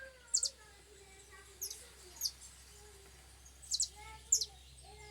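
Small songbird giving short, sharp, high chirps, about five in all, some in quick pairs.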